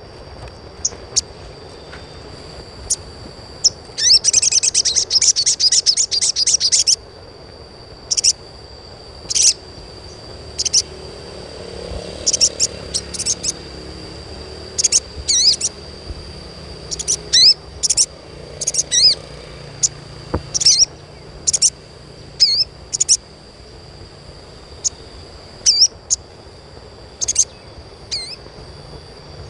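Bar-winged prinia (sogon) chirping: short, sharp, high calls come singly and in small clusters. About four seconds in there is a fast rattling trill that lasts about three seconds.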